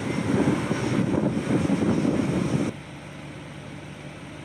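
Honda Grom mini bike's small single-cylinder engine running with wind rushing past during a ride. It drops sharply a little over halfway through to a quieter, steady hum.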